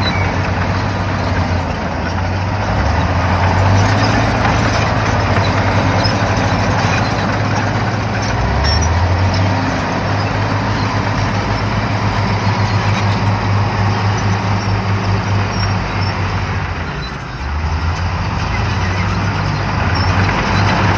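Shantui bulldozer's diesel engine running under load, its pitch stepping up and down as the load changes, with a brief dip in level about three-quarters of the way through.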